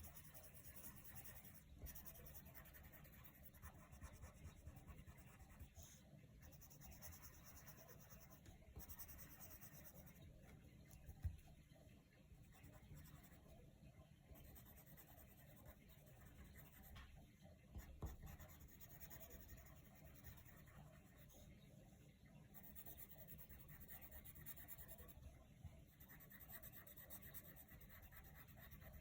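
Coloured pencil shading on paper: a faint, continuous scratching of the lead across the page, with a couple of light taps along the way.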